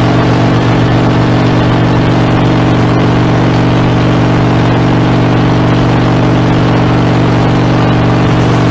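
Harley-Davidson Dyna's air-cooled V-twin running at a steady, unchanging engine speed through Screamin' Eagle exhaust.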